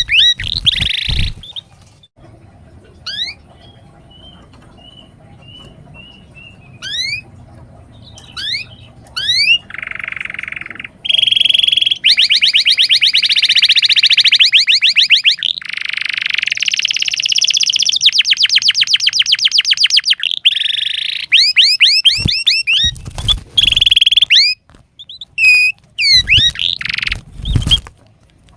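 Domestic canary singing: a few scattered chirps and whistled notes at first, then long loud phrases of very fast repeated notes, rolling trills broken by short pauses.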